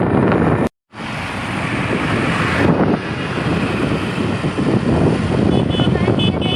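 Wind buffeting the microphone with road and traffic noise while riding a scooter, steady after a short cut about a second in. Several short horn toots sound near the end.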